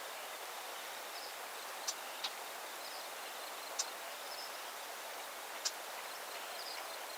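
Outdoor nature ambience: a steady hiss with a few short, high bird chirps scattered through it, four of them sharper than the rest.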